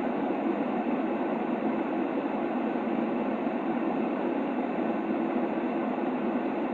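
Steady, unchanging white noise for soothing a baby, a deep hiss strongest in the low-middle range with little treble.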